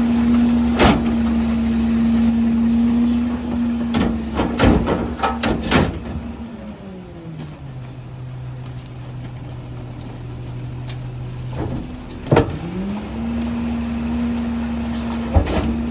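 Garbage truck engine held at a raised speed, dropping to idle about six to seven seconds in and speeding back up about twelve and a half seconds in, the pattern of the hydraulic packer cycling. Sharp metallic knocks and clanks come about a second in, in a cluster between four and six seconds, and again near the end.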